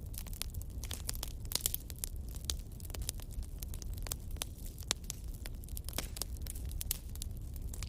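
Wood fire crackling, with frequent sharp irregular pops over a steady low rumble.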